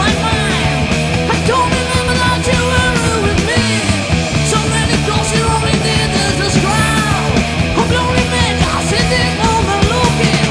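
Heavy metal band playing, with distorted electric guitars, bass and drums. A melodic line bends up and down in pitch over the steady, dense backing.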